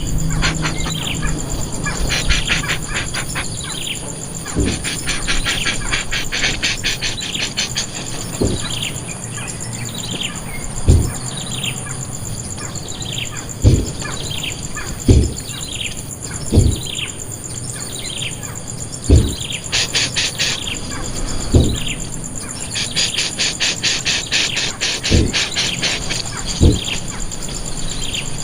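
A bird repeating short falling chirps about once a second over steady, rapid insect buzzing, with a dozen short low thumps spread through.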